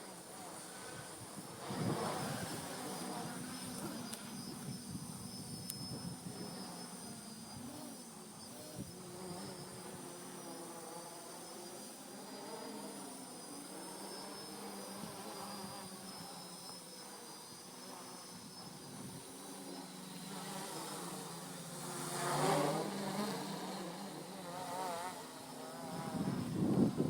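Homebuilt quadcopter's brushless motors (Turnigy 2213N) and small propellers buzzing, the pitch wavering up and down as the throttle is worked. The buzz swells louder about two seconds in, again around twenty-two seconds and near the end.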